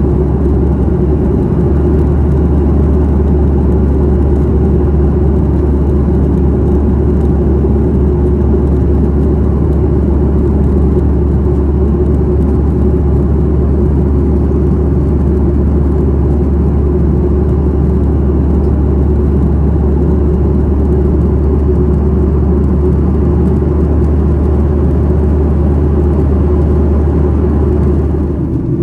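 Steady, loud cabin drone of a Boeing 737-800 in flight, heard from inside the cabin: its CFM56-7B turbofan engines and the rushing air make an even deep hum under a wash of noise, easing slightly right at the end.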